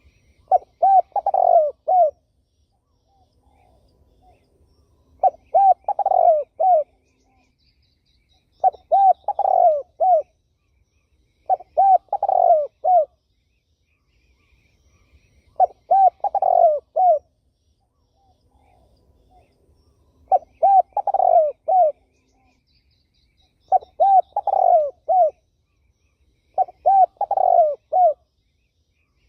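Spotted dove cooing: eight phrases of four or five low coos each, repeated every three to four seconds.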